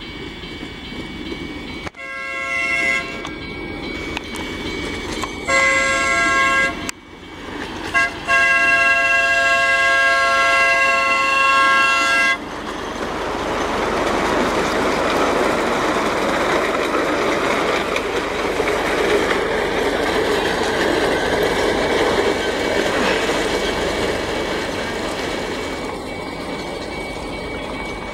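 Miniature park train's horn sounding a chord in the grade-crossing pattern, long, long, short, long, as it approaches the crossing. The train then runs past, its rumble and wheel noise building and fading away.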